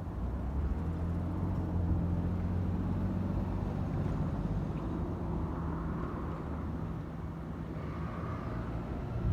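A motor vehicle's engine running with a steady low hum over road noise.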